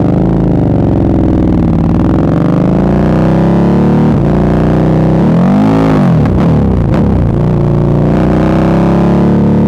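Motorcycle engine through an SC-Project aftermarket exhaust, its note rising and falling with the throttle, with a quick rev up and back down about five to six seconds in.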